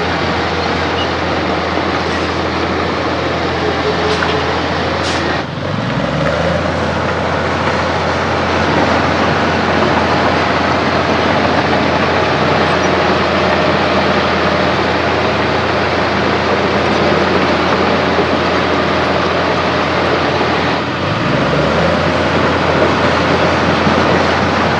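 Heavy diesel engine of earthmoving machinery running steadily under load. Its low note dips and climbs back twice, once after about five seconds and again late on. A few faint clicks come early.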